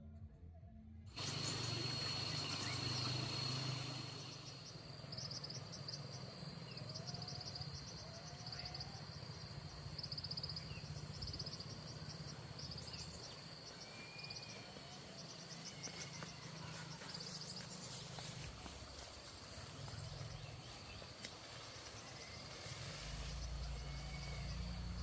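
Outdoor insect chorus: a steady high-pitched trill with repeated short pulsed chirps, starting suddenly about a second in, with a few faint short whistling calls.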